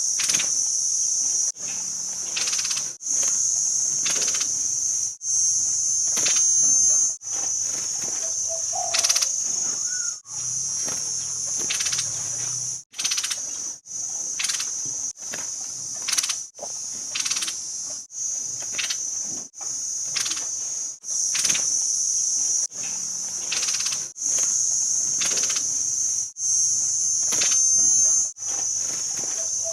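A steady, high-pitched insect buzz, cricket- or cicada-like, cut into pieces of one to two seconds with abrupt breaks and small clicks between them.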